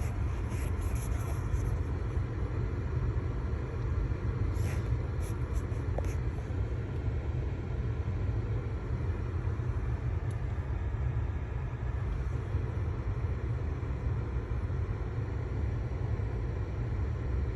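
Steady low rumble of a car idling, heard from inside the cabin, with a few faint clicks about five seconds in.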